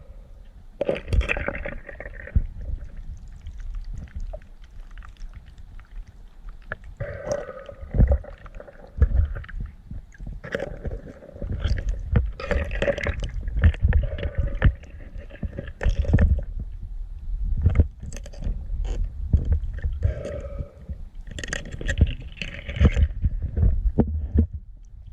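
Muffled underwater sound picked up by a GoPro in its waterproof housing: irregular low rumbling and gurgling from moving water, with many short knocks and thuds.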